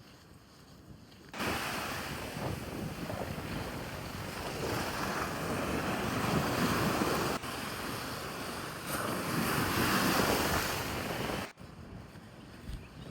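Surf breaking on a beach, with wind buffeting the microphone. It starts and stops abruptly and swells louder twice, in the middle and near the end.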